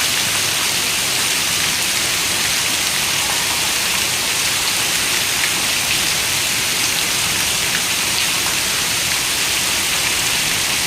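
Steady rain falling, an even hiss with faint scattered drop ticks, no thunder.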